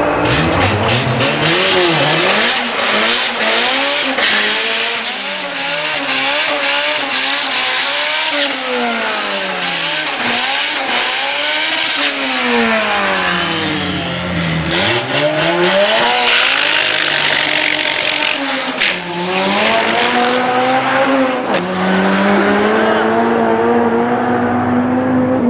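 Turbocharged Honda CRX engine revving up and down over and over during a burnout, with the tyres squealing as they spin. Near the end the car launches and the engine pitch climbs steadily as it pulls away down the strip.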